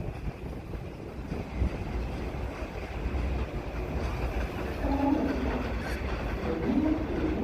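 New York City subway train running on the rails, a continuous low rumble, with a wavering higher tone joining about five seconds in.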